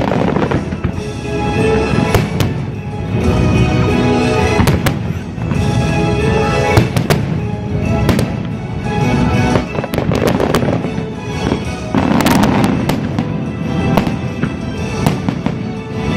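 Fireworks bursting in repeated bangs and crackles over the show's music, played loud over the park's speakers.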